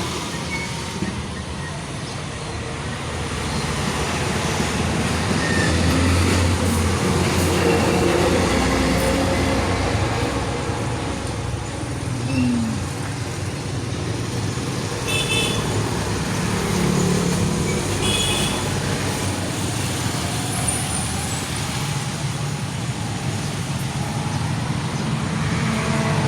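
Street traffic: motor vehicles running past, the sound swelling as they go by, with two short high beeps about fifteen and eighteen seconds in.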